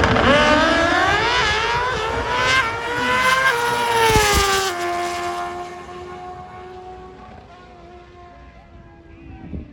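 Pro Stock Motorcycle drag bikes launching and running down the strip, the engine note climbing in pitch with sudden steps at each gear change. About five seconds in it drops away and fades steadily as the bikes get farther off.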